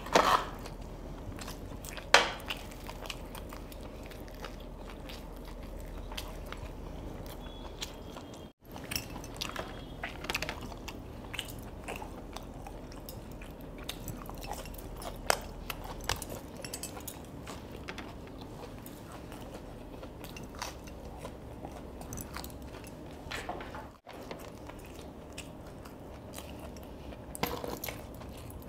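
Close-up chewing and crunching of fried chicken popcorn pieces, with scattered sharp clicks from handling the cardboard box near the start.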